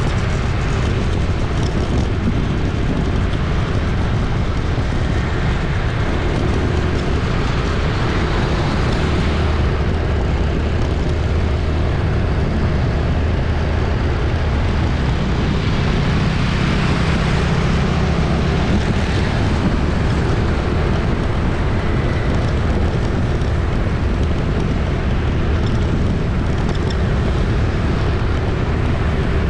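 Busy city street traffic: a steady, dense wash of vehicle engines and tyre noise with vehicles continually passing, never letting up.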